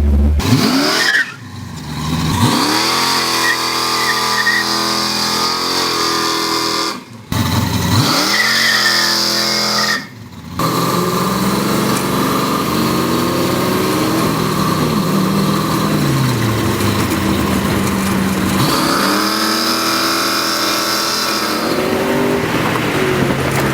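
A car engine revving hard and being held at high revs, with the pitch falling back and climbing again several times. The sound cuts off sharply three times in the first half.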